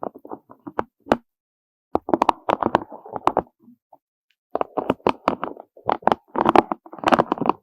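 Soft clusters of rapid knocks and taps, like small hard objects clattering against each other: a burst at the start, a longer run from about 2 to 4 s, then a denser run from about 4.5 s on, with brief pauses between.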